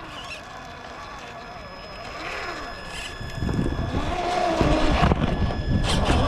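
Electric motor and drivetrain of a Traxxas TRX-4 1/10 scale RC crawler whining, the pitch rising and falling as the throttle is worked. From about three and a half seconds in, wind buffets the microphone loudly over it.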